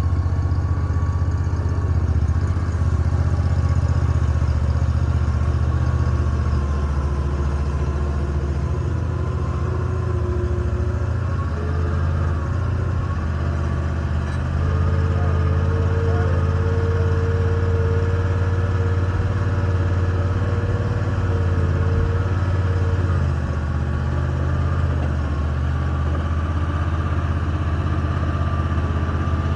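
A vehicle engine idling steadily with a low rumble. A faint whine comes in about halfway through and fades out a few seconds later.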